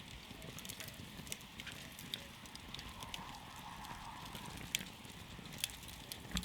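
Campfire burning wood, crackling with scattered sharp pops and snaps over a steady low noise; a few louder pops come near the end.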